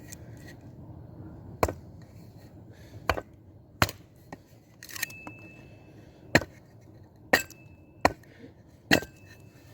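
A blade chopping into a small wooden log to split it, about eight sharp, irregularly spaced strikes. Several of the strikes leave a brief metallic ring.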